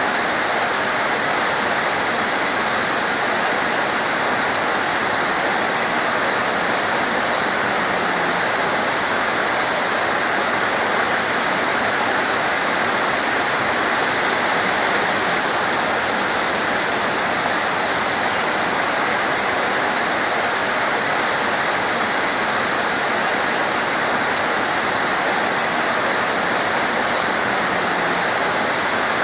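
Heavy, torrential rain: a steady, dense hiss of pouring water with no pauses, broken only by two brief sharp ticks, about four seconds in and near the end.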